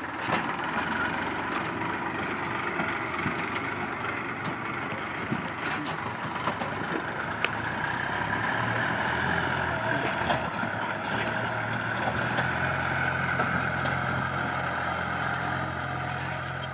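Diesel tractor engine running steadily with some rattling. Its low hum grows stronger about halfway through.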